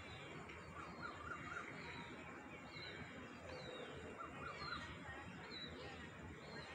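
Several wild birds calling: a string of short, high chirps that slide down in pitch, repeated every second or so, with a few brief warbling calls lower down, over steady outdoor background noise.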